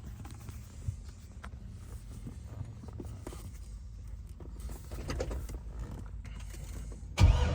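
Low steady rumble with scattered light clicks and knocks. Near the end a sudden loud, low sound begins: the straight-piped LS3 V8 of a C6 Corvette starting up.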